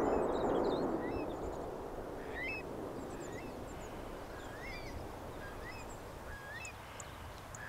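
Birds chirping in short, quick rising and falling whistles over a steady low background noise, while a low rumble dies away over the first couple of seconds.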